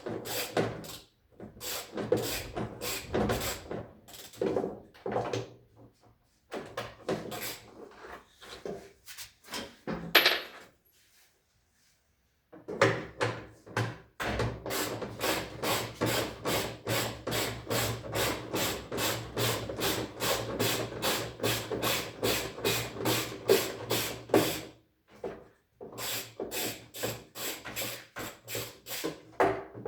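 Hand tool scraping or rasping in repeated back-and-forth strokes. The strokes come in irregular spells at first, stop for about two seconds near the middle, then run evenly at about three a second for some ten seconds.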